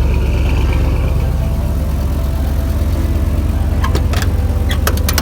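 Truck engine idling steadily, just started again after a blown fuse had stopped it, with a few sharp clicks near the end.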